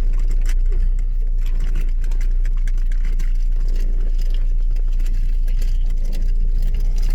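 Car heard from inside the cabin: a steady low drone, with scattered small clicks and rustles.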